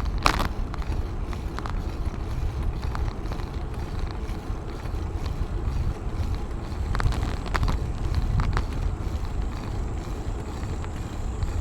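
Wind buffeting the microphone and a steady low rumble of a moving bicycle, with a few sharp clicks or rattles, one at the start and several about seven to eight seconds in.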